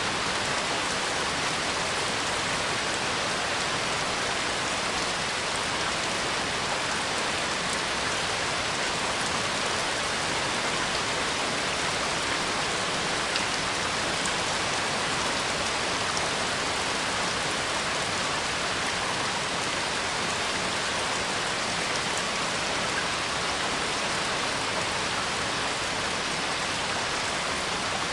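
Steady rain falling, a dense, even hiss of drops on surfaces.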